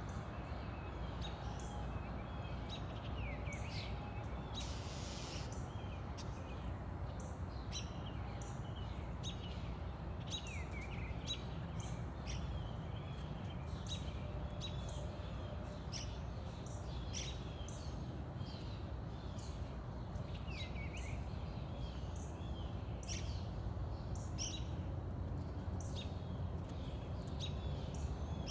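Songbirds chirping and calling, short high chirps and quick sweeps repeating over and over, over a steady low rumble.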